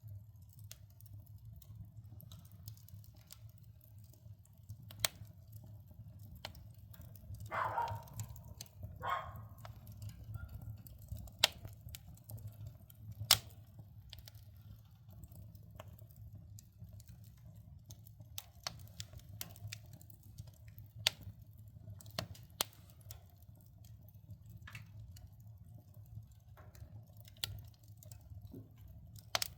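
Firewood crackling in a wood-burning stove: sharp pops and snaps at irregular intervals over a steady low hum, with two brief louder noises about eight seconds in and the loudest pop about thirteen seconds in.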